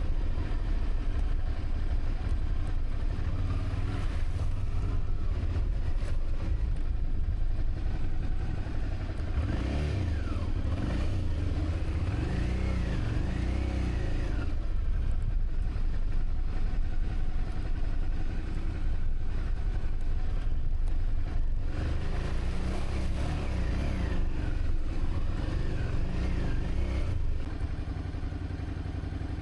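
Motorcycle engine running, its revs rising and falling repeatedly over a steady low rumble.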